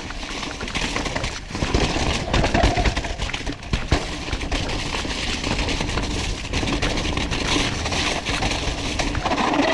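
Mountain bike riding fast down a wet, muddy trail, heard from a GoPro on the rider: wind buffeting the microphone, tyres running through mud and water, and the bike knocking and rattling over roots and bumps.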